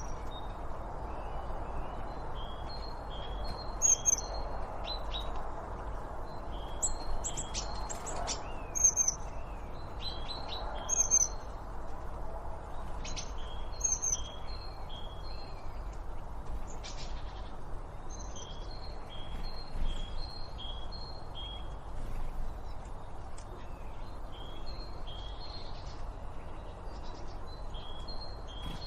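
Several wild birds chirping and calling, with many short notes repeated in quick series and a few louder, sharper calls standing out, over a steady low background rush.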